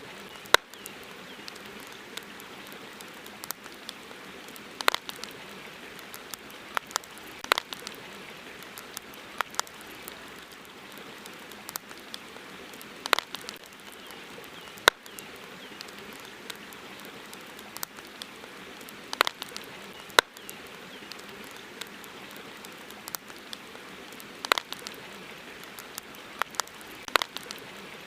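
Wood campfire crackling: irregular sharp pops and snaps over a steady soft hiss.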